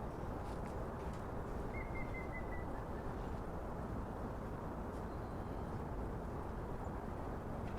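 Steady outdoor city ambience: an even low hum of the surroundings, with a short high chirp about two seconds in.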